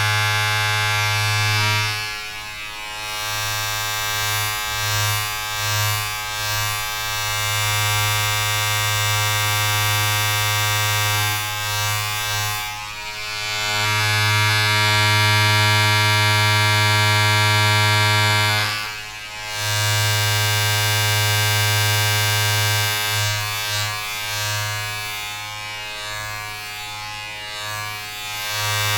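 A steady electric buzz with a strong low hum and many overtones, as from a small electric motor. It dips briefly in loudness a few times and wavers lower near the end.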